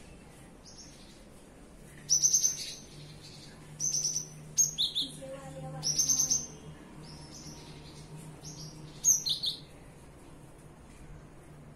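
Cinereous tit (gelatik batu) singing: several short bursts of quick, high, repeated notes separated by pauses, over a faint steady low hum.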